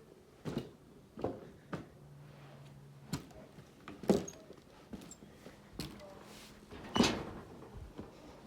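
Footsteps over rough ground at an uneven pace, a series of separate thuds and knocks, the loudest about four and seven seconds in.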